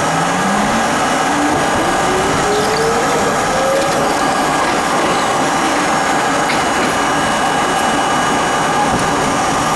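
R32 subway car running on the track, with a rising motor and gear whine over the first four seconds as the train picks up speed, then a steady running rumble.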